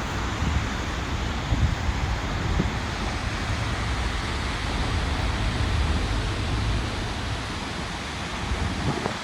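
Wind buffeting the microphone in uneven low gusts over a steady rush of water.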